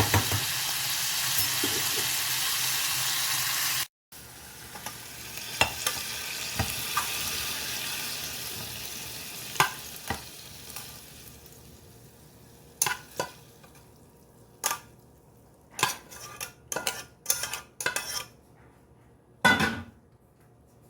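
Broccoli, green beans and carrots sizzling in a frying pan as they are stirred, with clicks from the utensil. About four seconds in the sound cuts off suddenly; a quieter sizzle follows and dies away. Near the end come a string of sharp clinks and knocks of a utensil on cookware.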